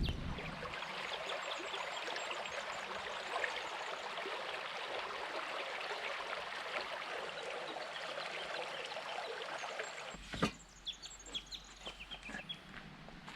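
River water rushing steadily over a rocky cascade. About ten seconds in, the rush gives way after a sharp knock to a quieter stretch with scattered light clicks.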